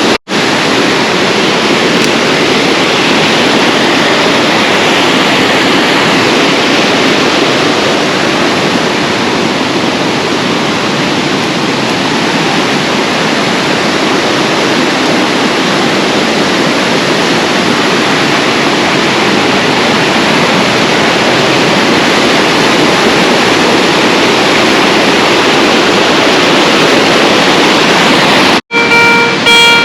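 Waterfall pouring into a swimming hole: a steady, loud rush of water that breaks off briefly near the end.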